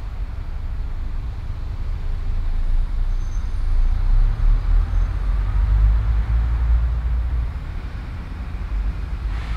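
City street traffic noise: a steady low rumble that grows louder from about four seconds in and eases off again near the end.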